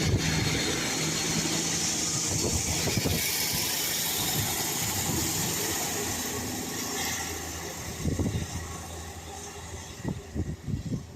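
British Rail Class 150 diesel multiple unit pulling away, its underfloor diesel engines running steadily and slowly fading as it draws off. Gusts of wind buffet the microphone about eight seconds in and again near the end.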